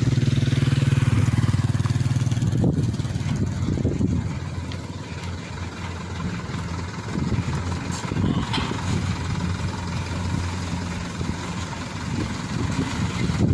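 Engine running close by, loud for the first few seconds, then easing to a lower level that rises and falls unevenly.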